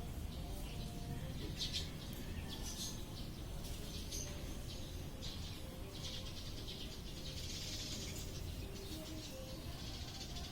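Lovebirds chirping and chattering: short sharp chirps at first, then longer runs of high chatter about two thirds of the way in and again near the end, over a steady low rumble.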